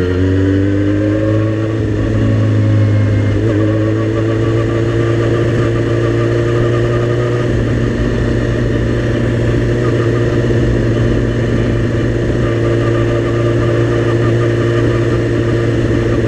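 Suzuki GSX-R sport bike's inline-four engine pulling under way: its pitch rises for the first couple of seconds, drops with a gear change about three and a half seconds in, then holds nearly steady at cruising speed.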